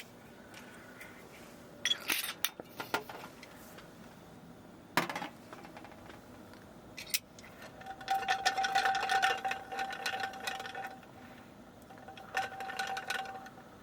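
Clinks of ice and glass, then whisky poured from the bottle over ice in a glass: a gurgling, pitched pour with crackling ice for about three seconds, and a second short pour near the end.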